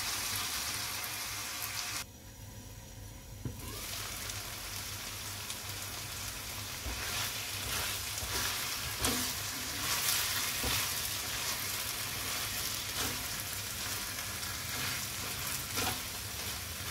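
Chicken pieces with tomato and onion sizzling as they fry in a stainless steel pan, with a spatula stirring and scraping against the pan now and then. The sizzle dips for about a second and a half about two seconds in.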